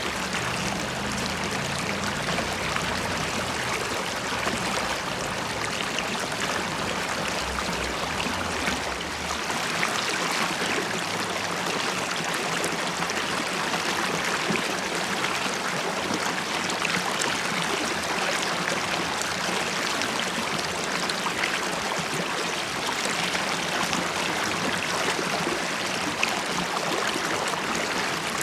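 River water flowing and bubbling in a steady, even rush with fine gurgling texture. A low rumble underneath dies away about nine seconds in.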